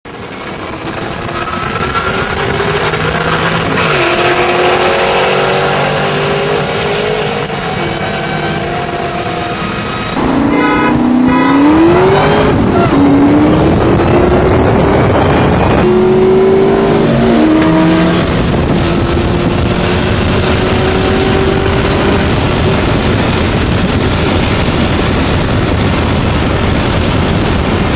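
2003 Mustang SVT Cobra's supercharged 4.6 L V8 accelerating hard through several gears, its pitch rising and then dropping at each shift, louder from about ten seconds in.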